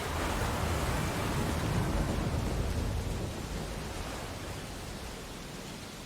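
Ocean surf: a wave breaks and washes up the beach, rising sharply at the start with a deep rumble, then fading into a steady hiss.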